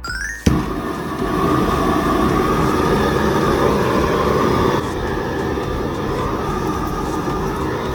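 Shinfuji RZ-740 large butane gas torch lit with a sharp pop about half a second in, then burning with a loud, steady rushing flame that eases slightly near the middle.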